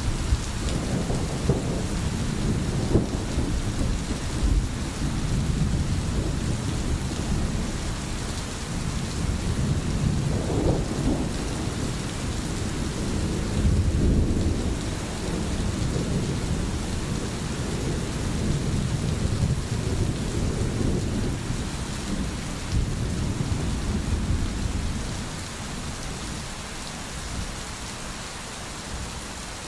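Steady rain falling, with low rolling rumbles of thunder that swell and fade under it and ease off in the last few seconds.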